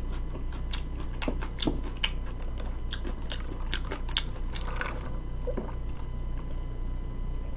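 Close-miked chewing and biting: irregular crisp mouth clicks, most of them in the first five seconds, over a steady low hum.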